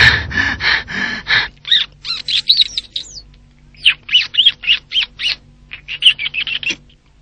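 A bird chirping: a quick run of short pulses, then repeated short, high chirps in rapid series.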